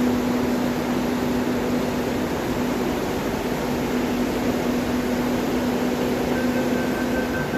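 Steady hum and rush inside an MTR C-Train (Adtranz-CAF) car from its air conditioning and traction and auxiliary equipment, with a low steady tone that stops near the end.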